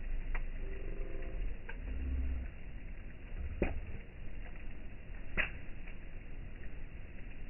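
Wood campfire crackling, with a few sharp pops spread a second or two apart over a low rumble.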